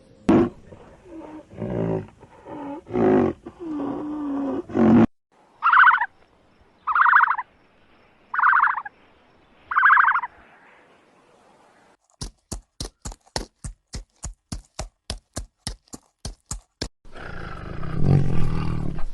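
A run of different animal calls: loud growly calls at first, then four short higher-pitched calls, then a fast even string of clicks, and a loud rough roar-like call near the end.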